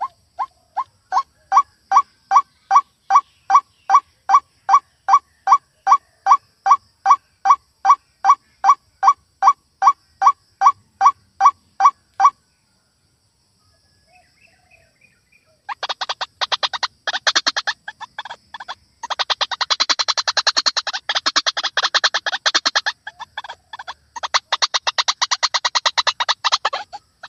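White-breasted waterhen calling. First comes a long, steady series of evenly spaced, clear notes, about two and a half a second. After a short pause it breaks into a fast, harsh, chattering run of croaking notes.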